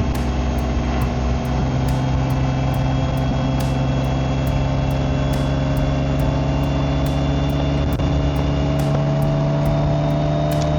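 BMW K1600GT's inline-six engine and exhaust running steadily under way, its pitch climbing slowly near the end as the bike speeds up.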